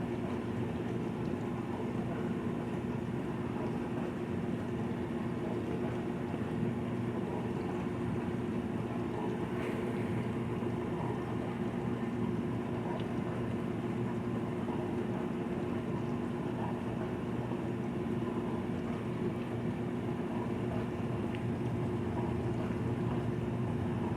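Dishwasher running its cycle: a steady motor hum with an even low drone.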